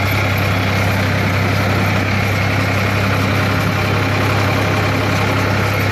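Tractor engine running steadily with a strong, constant low hum, heard from on board during a ride.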